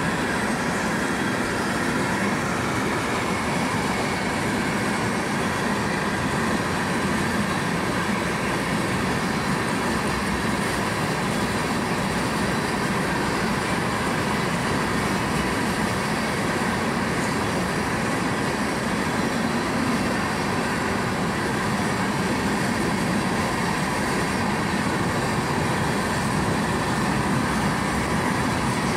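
Hopper cars of a BNSF freight train rolling past, with a steady, even noise of steel wheels on the rails.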